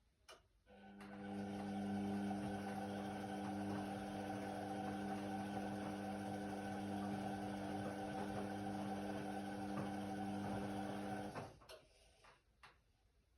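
Indesit WIDL 106 washer-dryer's motor starting with a click, running at a steady hum for about ten seconds, then stopping abruptly, with a few light clicks after it stops.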